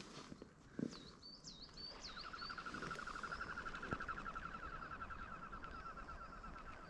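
Birds calling: a few quick high chirping notes, followed by a long, even, rapid trill that runs for about five seconds. There is a soft knock about a second in.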